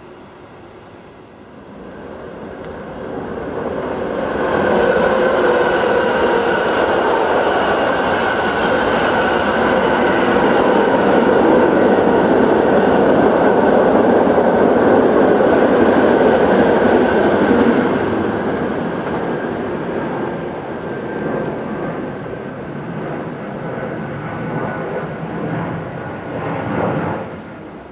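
A train passing close by. The rail noise builds over a couple of seconds and holds loud and steady for about fourteen seconds, with a faint steady whine over the rumble. It then eases off and drops away sharply near the end.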